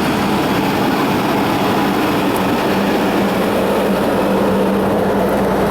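Train at the station giving out a steady rumble and hiss with a low hum that doesn't change.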